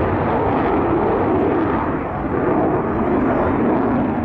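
Aircraft engine noise at a steady level.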